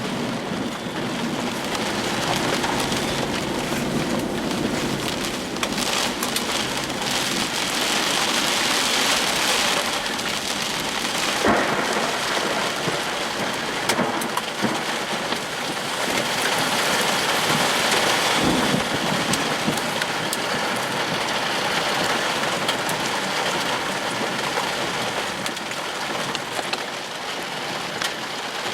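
Heavy thunderstorm rain pouring down steadily, with a few sharp knocks partway through.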